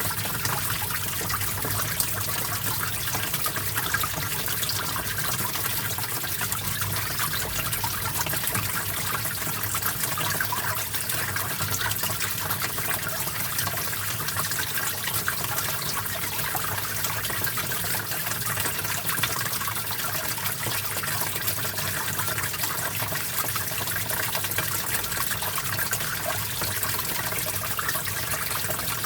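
Small stream flowing steadily, water trickling and splashing over rocks.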